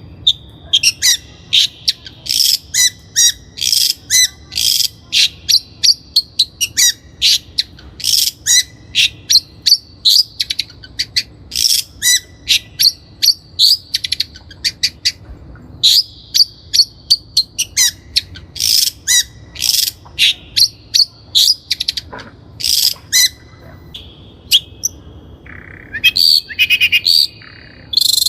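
Long-tailed shrike singing: a fast run of short, sharp, high notes, several a second, with a brief lull about three quarters of the way through.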